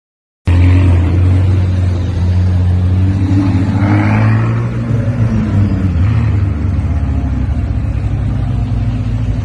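McLaren twin-turbo V8 engine running with a deep, steady note, cutting in abruptly about half a second in, with small changes in pitch.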